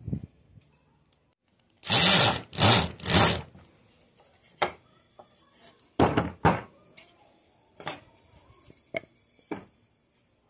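Wood and tools being worked on a wooden workbench. Three loud rasping strokes come about two seconds in, then a scatter of sharp knocks and clicks of wood and tools set down on the bench.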